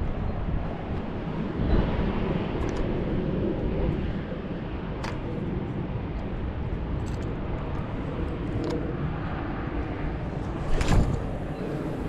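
Steady, low outdoor rumble with no clear pitch, broken by a few short clicks and a louder knock about eleven seconds in.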